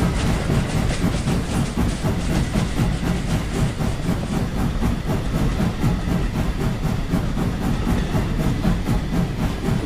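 A train running on the track: a steady, even noise of the moving train, with no music over it.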